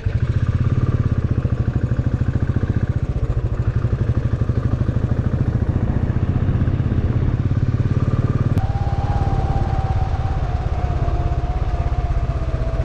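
Motorcycle engine running steadily with a fast, even pulsing. About two-thirds of the way through, the sound shifts abruptly and a single steady tone comes in and holds.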